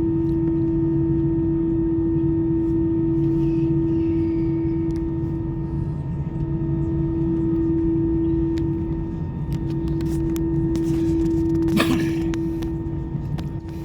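Steady droning hum inside an airliner's cabin, the jet engines and cabin air running with a constant tone over a low rumble, a few light clicks, and a short rustle near the end.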